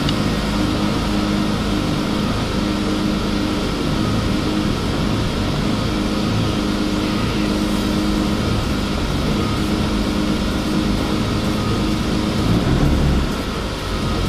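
Turbocharged BMW E36 M3's S52 straight-six idling steadily, heard from inside the cabin, with a brief swell in the engine sound near the end. It is idling lean, with the air-fuel ratio around 15 to 17 and the check engine light on, a running fault the owner has not yet traced.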